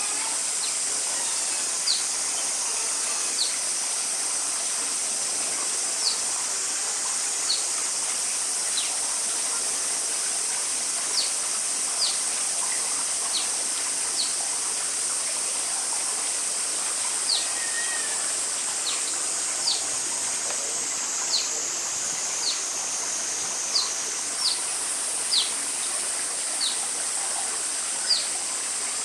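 Oriental small-clawed otters giving short, high, falling chirps, about one every second or so, over a steady high-pitched hiss.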